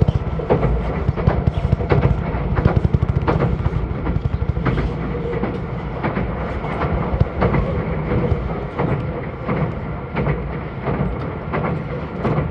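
Meitetsu 2000 series μSKY electric train running at speed: a steady rumble of wheels on rail with irregular clicks from the rail joints.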